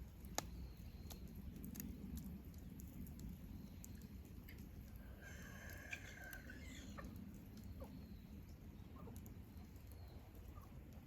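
Wood campfire crackling faintly, with scattered sharp pops over a low steady rumble. About five seconds in, a bird calls once for about a second and a half.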